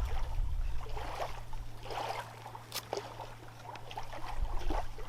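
Knife blade shaving feather-stick curls off a pine stick: short scraping strokes, a little more than one a second.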